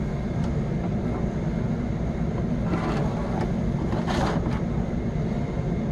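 Steady low mechanical rumble, even in level and without clear rhythm.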